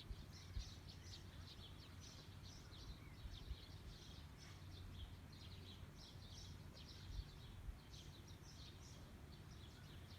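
Faint chorus of small birds chirping, many short high calls in quick succession, over a steady low rumble.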